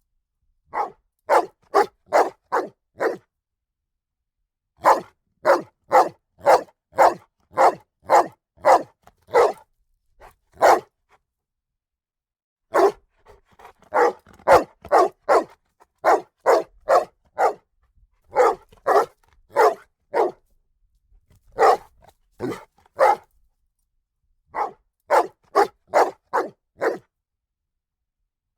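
A dog barking in volleys of short, sharp barks, about two a second, with pauses of a second or two between the volleys.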